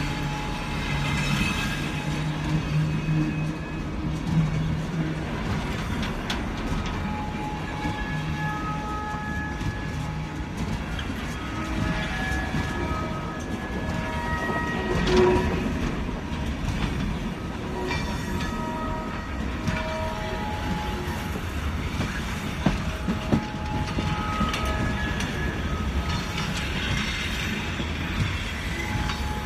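Narrow-gauge train running through the cave, heard from on board: a steady rumble and rattle of the cars on the rails, with many short, high squeals from the wheels.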